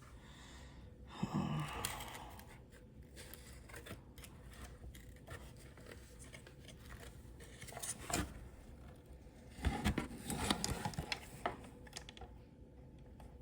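Plastic side-mirror parts being handled and pressed together, giving scattered light clicks and scrapes, with a busier run of clicks late on as a piece is fitted into place.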